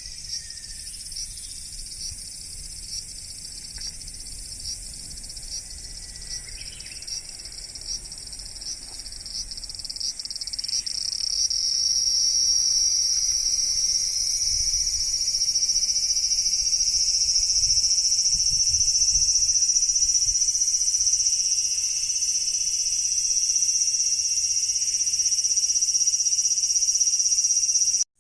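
Chorus of insects, a steady high shrill buzz that grows louder about ten to twelve seconds in. Before that a pulsing call repeats about once a second over the buzz.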